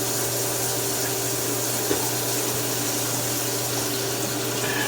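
French fries frying in hot oil: a steady bubbling sizzle, with a steady low hum underneath.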